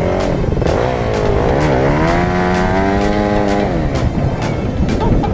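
Dirtbike engine revving: the pitch dips, climbs sharply about two seconds in, holds high for over a second, then drops away near the end.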